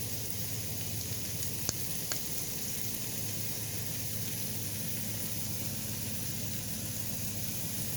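Peppers and onions frying in oil in an Instant Pot, a steady sizzle with a low hum underneath and two light clicks about two seconds in.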